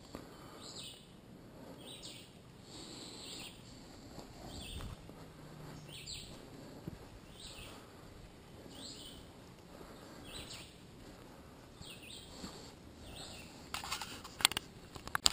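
Faint woodland birdsong: a bird repeating a short, quick falling high note about once a second. Near the end comes a run of sharp clicks and rattles.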